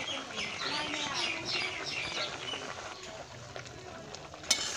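A small bird chirping fast, a run of quick falling notes for the first couple of seconds, over the bubbling of water boiling in a kadai. Near the end there is a single sharp clack, a metal slotted spatula knocking against the pan.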